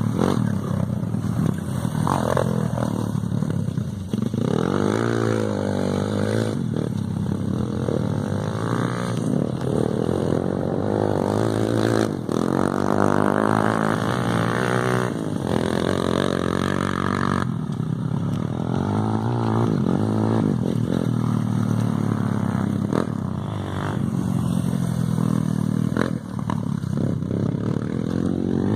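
Motocross dirt bike engine revving up and down repeatedly as it is ridden, its pitch climbing and dropping over and over, with a few short breaks.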